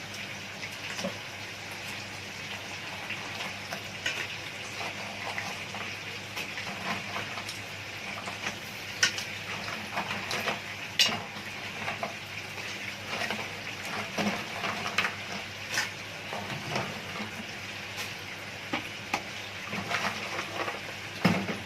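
Crabs sizzling as they fry in hot oil with softened onions and garlic, a steady hiss, with repeated clicks and knocks as the hard shells are laid into the pot on their backs and knock against its metal.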